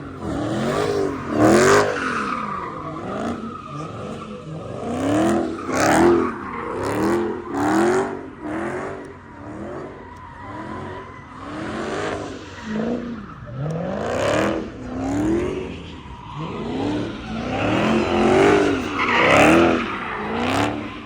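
High-performance car engines revving up and down over and over, roughly once a second, with tyre squeal and skidding from cars spinning their wheels.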